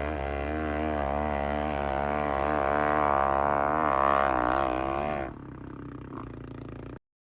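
Dirt bike engine revving under load on a hill climb, its pitch wavering with the throttle. It drops off sharply about five seconds in to a quieter, lower running sound, then cuts off.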